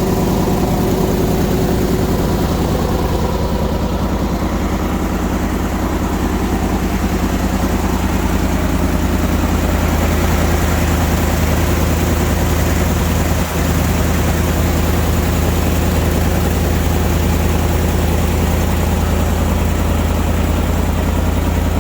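An engine idling steadily at an even speed, with one short dip in level a little past halfway. It is freshly started and left running to build air pressure and charge its battery.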